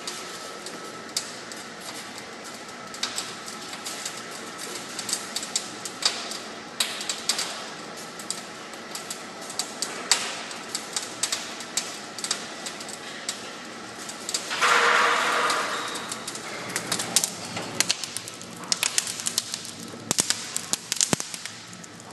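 Installation work: many irregular light clicks and knocks, with a louder burst lasting about a second and a half around the middle and quicker knocks near the end.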